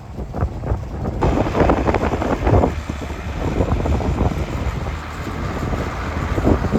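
International 5288 tractor's diesel engine running with a steady low rumble; it grows louder and fuller about a second in. Wind buffets the microphone throughout.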